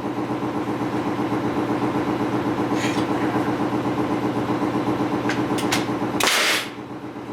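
A motor running steadily with a fast throb. Near the end come two short, loud bursts of hissing noise about a second apart as a corner brace is fastened into the wooden frame.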